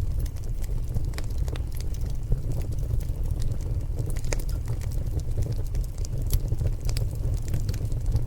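Wood fire burning in a fireplace: a steady low rumble of flame with frequent sharp crackles and pops from the logs.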